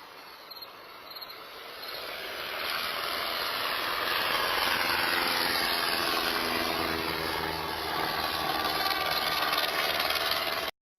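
A motor vehicle's engine noise rising over a couple of seconds and then running steadily, before it cuts off abruptly near the end; crickets chirp faintly at the start.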